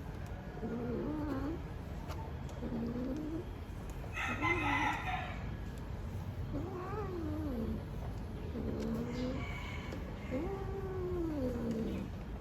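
Cat in heat yowling: about six low, wavering, drawn-out calls, one every second or two. A brighter, higher call comes about four seconds in.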